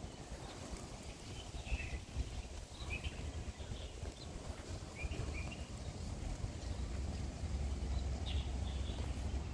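Birds chirping now and then over a low rumble that grows steadily louder toward the end.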